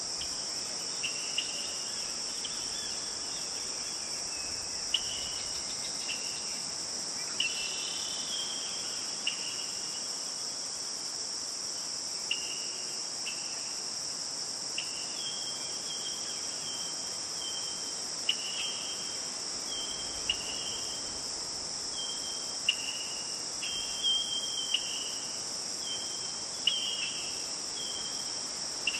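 A steady, high-pitched insect chorus, with many short chirps repeating over it.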